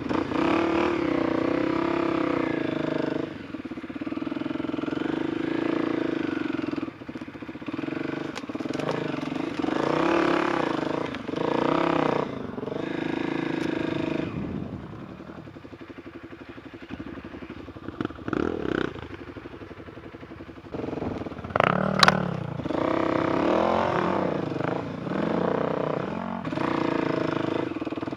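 Enduro motorcycle engine revving up and down in repeated surges as it is ridden. It drops to a lower, quieter note for several seconds past the middle, then a sharp knock is heard and the revving picks up again.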